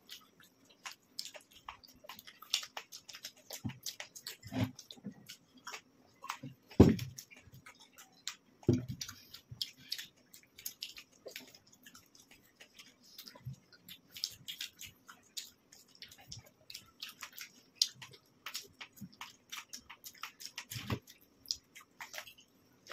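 People chewing and biting cold paneer pizza slices quickly, with many short wet mouth clicks and smacks, and a couple of louder dull knocks about 7 and 9 seconds in.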